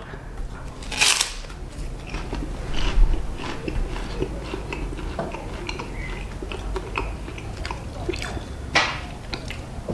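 A man chewing and eating close to the microphone, with many small mouth clicks and two louder, sharper noises, about a second in and shortly before the end.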